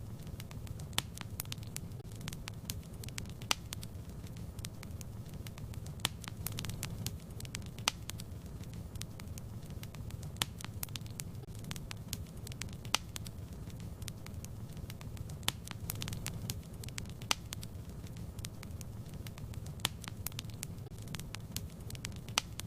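Wood fire burning in a fireplace: a steady low rumble of flames with irregular sharp crackles and pops, several a second, some louder snaps standing out.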